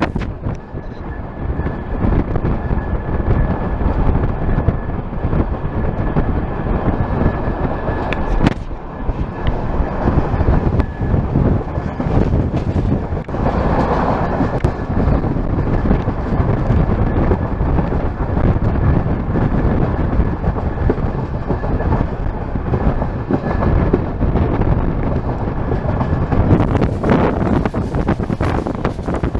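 Moving passenger train heard from on board: the steady rumble of coach wheels running on the rails, with wind on the microphone. A faint, steady high whine runs through most of it and stops near the end.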